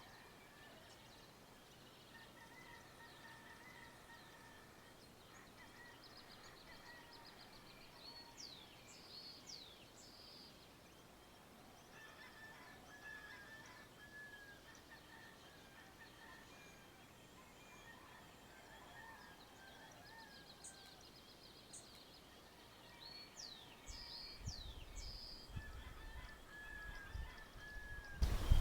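Dawn farmyard birdsong: distant domestic fowl give drawn-out calls again and again, and songbirds add quick falling whistles. Near the end a low rumble builds and there is a sharp thump.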